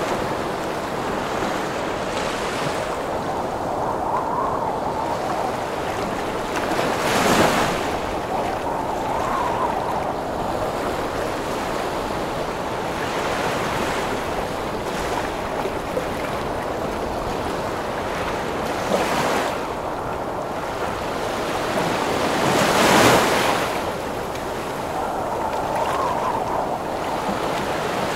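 Heavy ocean surf in strong wind: a continuous rush of water and wind, with two large waves crashing, one about a quarter of the way in and a louder one about four-fifths of the way through.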